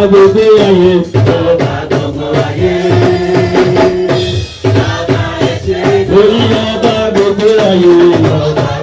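Church choir singing with drum accompaniment.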